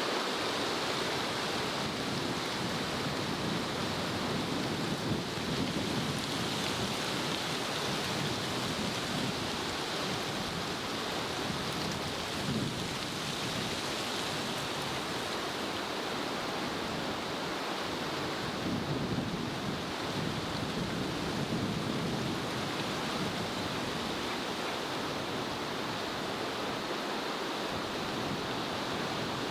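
Steady wind noise, an even rushing with no break in it.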